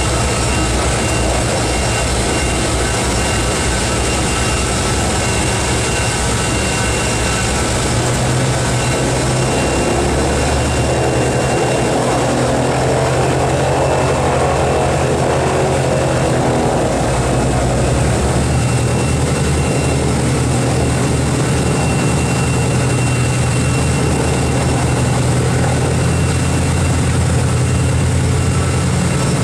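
Piston radial engines of a Boeing B-29 Superfortress running steadily, a loud continuous propeller drone. It swells about halfway through and settles into a deeper steady hum over the second half.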